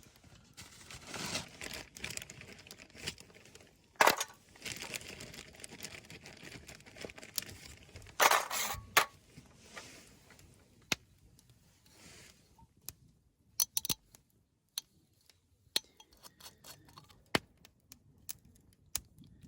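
Handling noise: rustling and crinkling for about the first twelve seconds, with two loud knocks about four and eight seconds in, then scattered small clicks and clinks.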